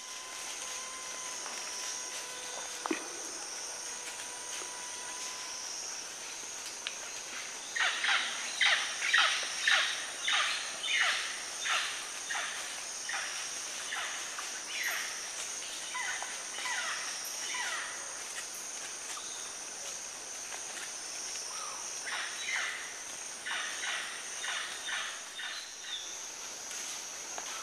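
Steady high drone of forest insects, with a bird calling a long series of quick descending notes, about two a second, starting about eight seconds in, pausing briefly and starting again near the end.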